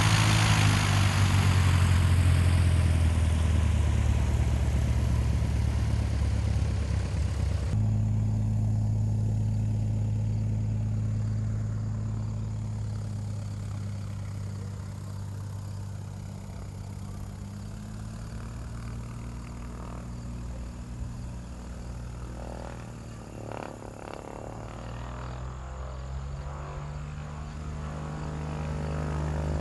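A vehicle engine running with a steady low hum. It is loud at first, changes abruptly about eight seconds in, fades away through the middle and grows louder again near the end.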